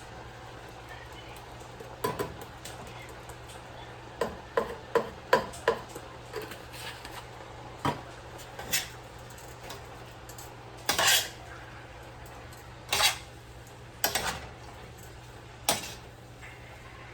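Kitchen utensils and cookware knocking and clinking in a series of separate sharp strikes, with a quick run of them between about four and six seconds in and a longer clatter near eleven seconds. A low steady hum runs underneath.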